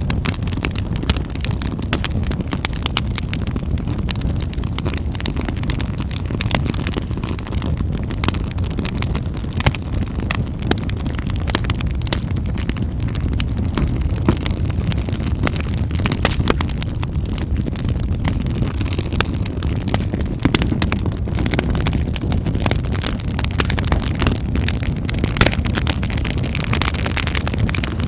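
Wood fire in a fireplace crackling: a steady low rumble of the flames with frequent sharp pops and snaps.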